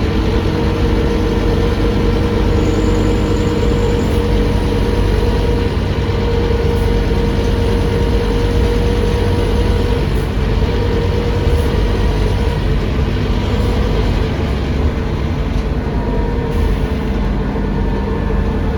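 Scania K310UA articulated bus with its Scania DC9 diesel engine running, heard from on board as a steady engine drone over even cabin noise.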